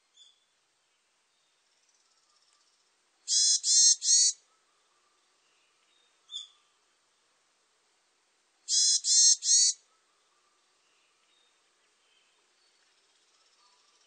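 Varied tit calling: two loud phrases of three notes each, about five seconds apart, with a few faint short notes between them.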